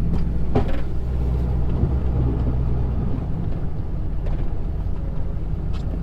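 Plow truck's engine running steadily as it works, with a single sharp click about half a second in.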